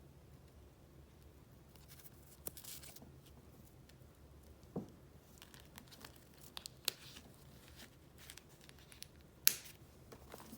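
Paper being handled and flipped through: scattered rustles and crinkles with a few sharp taps, the sharpest near the end, over a faint low hum.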